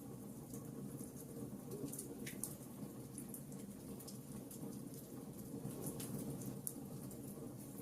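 Wood fire crackling: scattered sharp pops and snaps over a steady low rumble of the flames, with a few louder pops, the first about two seconds in.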